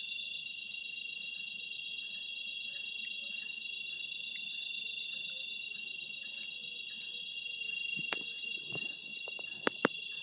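Night insect chorus in tropical forest: many crickets or cicadas trilling steadily at several high pitches at once. A few sharp clicks or knocks come near the end.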